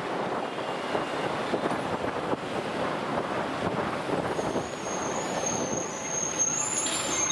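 Wind rushing over the microphone with engine and road noise from a moving motorcycle. A thin high whistle comes in about two thirds of the way through.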